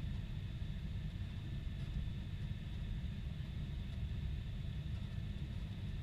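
Steady low rumble of a Boeing 747-400 in motion, engine and airflow noise heard as a continuous, unchanging drone.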